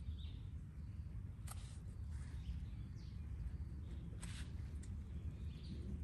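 Faint birds chirping in short calls over a steady low rumble, with two sharp clicks, one about a second and a half in and one about four seconds in.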